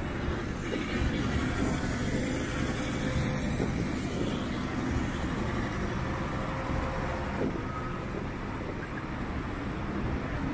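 Street traffic: the steady noise of motor vehicles running, with a continuous low rumble.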